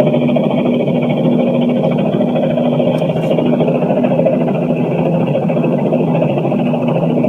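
A helicopter heard from inside an office building, a loud, steady drone with a low pitched hum.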